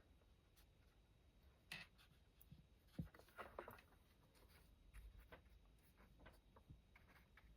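Faint scraping and tapping of a paintbrush working watercolour paint, a few short strokes and ticks scattered through a quiet room.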